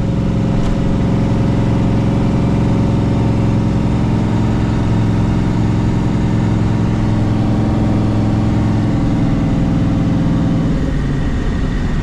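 A car's engine running steadily as it is driven, heard from inside with the windows down. The engine's pitch drops about ten seconds in as the revs come down.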